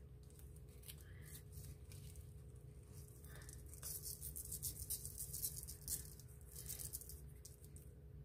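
Iodized salt sprinkled by hand onto sesame-oiled sheets of dried seaweed (nori): a faint series of short, dry hisses as the grains land on the crisp sheets, thickest about four to six seconds in.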